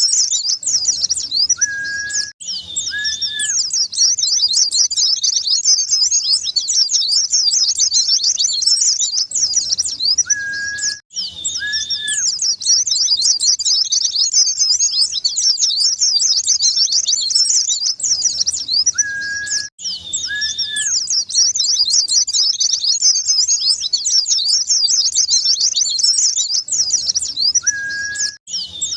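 White-eyes (pleci) singing: a dense, fast, continuous high-pitched twittering. About every nine seconds the recording repeats, with a pair of short, steady, lower whistled notes and a brief dropout each time it loops.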